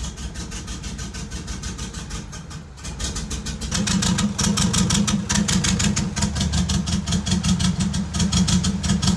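Turbocharged stock LS V8 idling, growing louder a few seconds in. It is running with cylinders one and two dead, not firing because two of its fuel injectors had failed.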